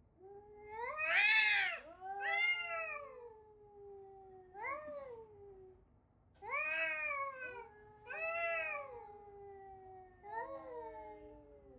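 Domestic cat meowing over and over: about six long, drawn-out meows, each rising and then falling in pitch.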